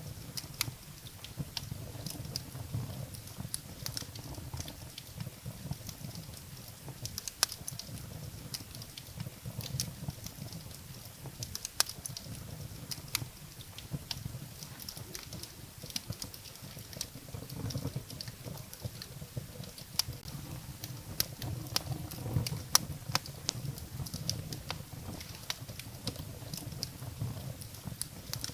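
Wood fire burning in a fireplace: irregular sharp crackles and pops of burning firewood over a low, steady rumble of the flames.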